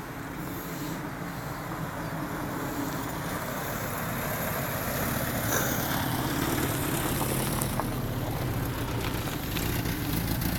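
A car engine running with road noise as the car drives, slowly getting louder.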